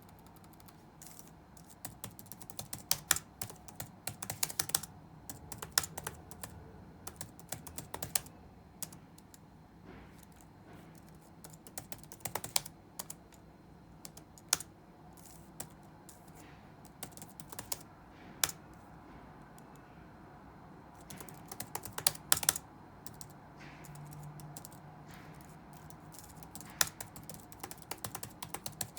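Touch typing on a computer keyboard: runs of quick keystrokes broken by short pauses, with a few louder, heavier key presses here and there.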